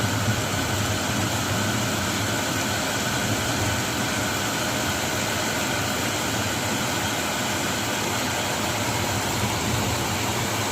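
Steady hiss of heavy rain over a low, even hum, with no thunderclap.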